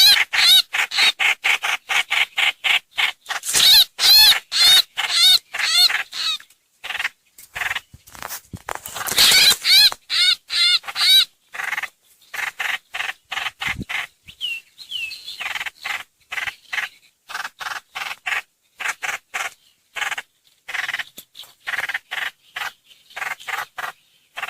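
Trao trảo (hoành hoạch) bird song played as a lure call: rapid, unbroken strings of short, wavering whistled notes. Louder spells of quick, looping slurred notes come three times and alternate with softer runs of notes.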